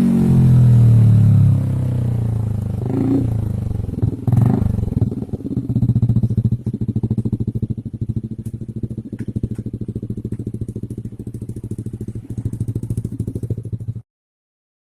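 Yamaha NVX 155 / Aerox 155 single-cylinder engine running through an F2 Racing stainless full-system exhaust: the revs fall away, it is blipped twice, then it settles into an even, rapidly pulsing idle. The sound cuts off suddenly near the end.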